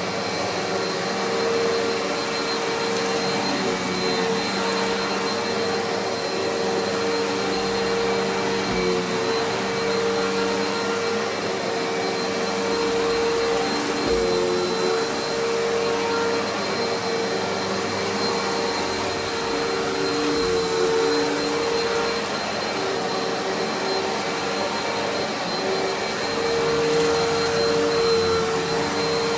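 Eureka Altima upright vacuum cleaner running steadily on carpet, its motor giving a constant whine over the rush of air, with slight wavering as it is pushed back and forth.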